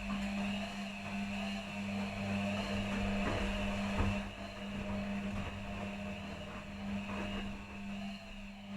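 Two front-loading washing machines, an Electrolux and an Arctic, running a quick 30 °C wash with a blanket in each, their drum motors giving a steady hum with a few soft knocks from the turning drums.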